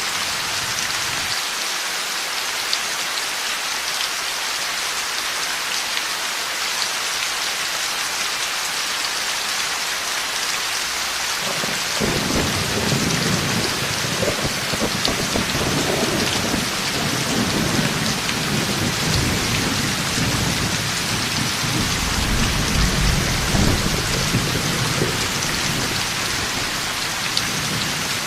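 Heavy rain pouring steadily, with a roll of thunder that breaks in suddenly about twelve seconds in and rumbles on for over ten seconds, swelling again before it fades.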